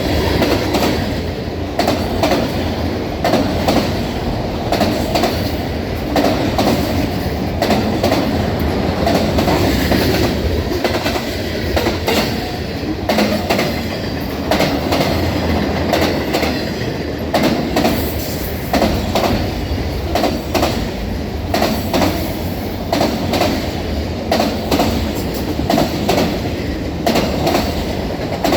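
Train's cars rolling past close by, the wheels clacking over rail joints in a steady, repeating rhythm.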